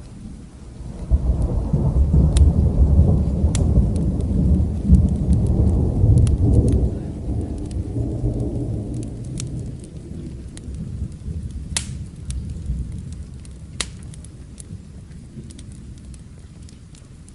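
A long roll of thunder builds about a second in, rumbles deep for several seconds and slowly dies away, over steady rain. Sharp snaps of a crackling wood fire come through it, two of them louder near the end.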